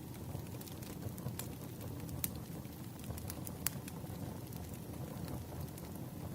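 Wood fire crackling: a steady low rumble with sharp, irregular pops of burning logs every second or so.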